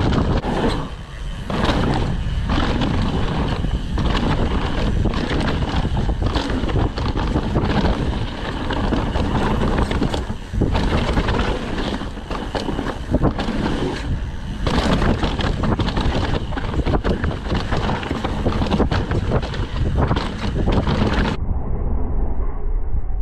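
Downhill mountain bike descending a rough trail: wind buffeting the chest-mounted camera microphone over a constant rush of tyre noise, with frequent knocks and rattles from the bike over bumps. Near the end the sound turns suddenly muffled, losing its top end.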